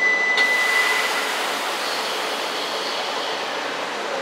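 A steady high tone cuts off about half a second in. At the same moment a sudden hiss starts and settles into a steady rush of noise from the coupled E4 series double-decker Shinkansen sets as the train starts to depart.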